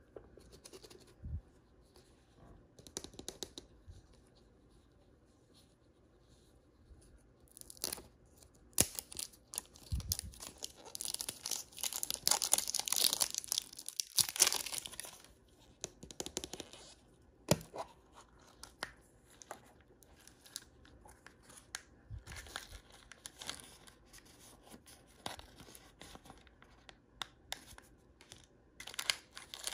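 Plastic toy packaging being torn open and crinkled by hand, in irregular bursts. The longest and loudest stretch of tearing comes in the middle, with scattered small clicks and rustles between.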